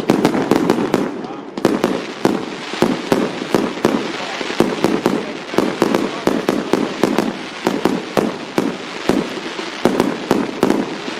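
Firecrackers going off in a rapid, irregular run of sharp bangs, several a second, with people's voices underneath.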